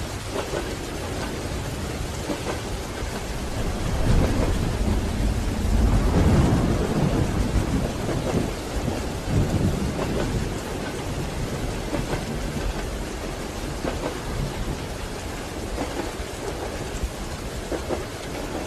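Steady rain falling, with a deep rumble that swells about four seconds in, peaks a couple of seconds later and fades away over the next few seconds.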